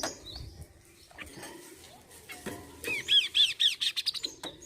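A bird calling: a fast run of about eight short, arched rise-and-fall whistled notes, coming about three seconds in, after a few faint clicks.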